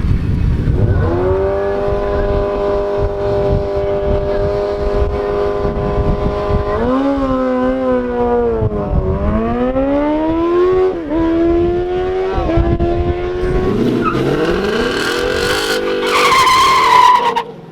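Race car engines at high revs during a drag strip pass: a strong engine note held at steady pitch for several seconds, then dropping and climbing again in steps as gears change, with a second engine rising in pitch near the end.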